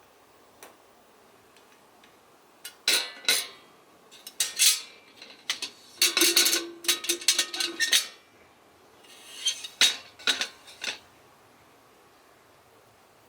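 Metal camping kettle being handled: lid and handle clinking and clattering in several bursts, with a brief metallic ring partway through.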